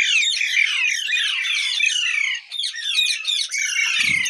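Parrots chattering: a dense, unbroken stream of rapid high-pitched squawks and chirps, dipping briefly about two and a half seconds in.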